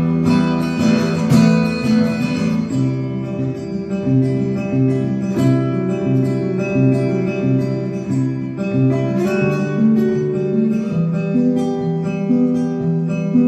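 Solo acoustic guitar playing an instrumental piece, with steady low bass notes about twice a second under a higher melody.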